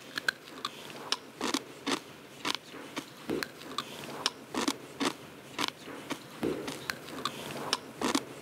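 Crunching and chewing of sugar-coated gummy jelly candy, a sharp crunch about twice a second as the thick sugar crust breaks between the teeth.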